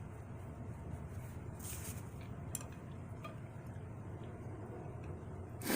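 Quiet eating sounds from a mukbang over a low steady hum, with a short knock of a utensil against a dish near the end.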